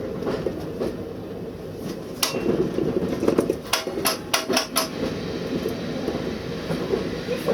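Steady running rumble inside a locomotive cab, with a quick run of sharp clicks and knocks in the middle.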